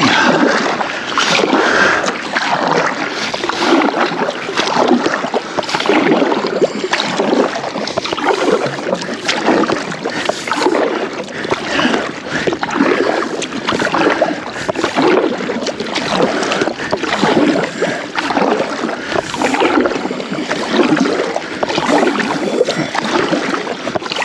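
Kayak paddle strokes splashing in the water, in a steady rhythm of about one stroke a second.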